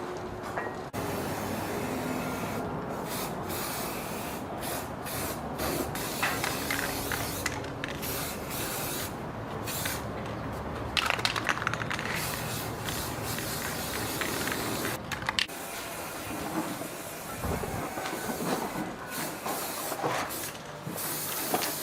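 Spray gun hissing as paint is sprayed, the trigger pulled in long passes with many brief breaks between them.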